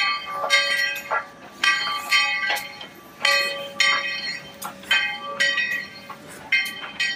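A bell ringing: a series of struck rings at uneven intervals of about half a second to a second, each ring dying away before the next.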